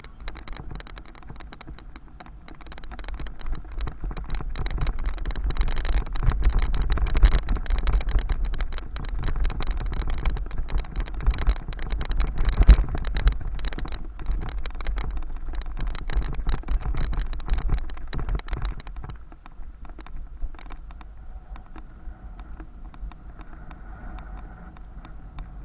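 Riding sounds from a bicycle on city roads: a heavy wind rumble on the microphone with dense rattling clicks. It grows louder a few seconds in and eases off near the end.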